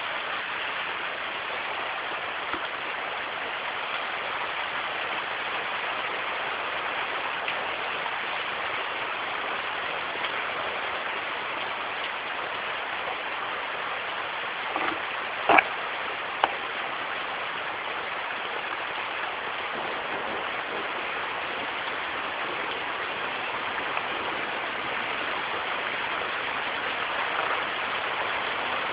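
Steady rain falling during a storm, with a few sharp knocks about halfway through.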